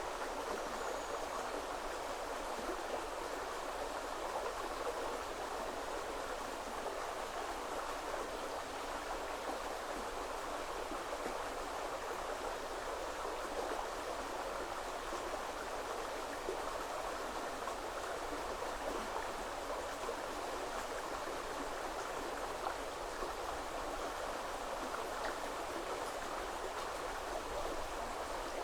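Woodland river flowing over stones: a steady, even rush of water that does not change.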